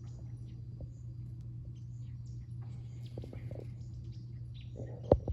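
Birds chirping in the background over a steady low hum, with one sharp knock about five seconds in.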